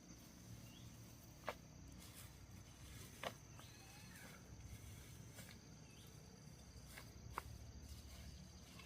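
Quiet outdoor background with a steady high insect drone, broken by three sharp snaps or clicks spread a couple of seconds apart.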